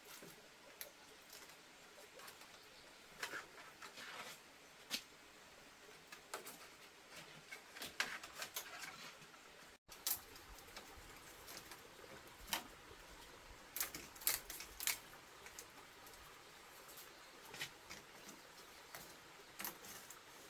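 Faint, irregular small clicks, taps and rustles, like objects being handled during manual work, with a few sharper taps around three to five seconds in and again around fourteen seconds.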